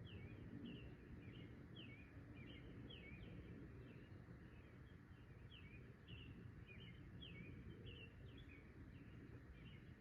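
Faint chorus of short, high, falling calls, roughly two a second and overlapping irregularly, over a low rumbling background.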